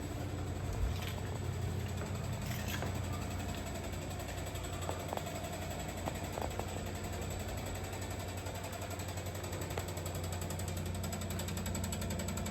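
Water meter giving off a steady low hum, the abnormal noise traced to the meter.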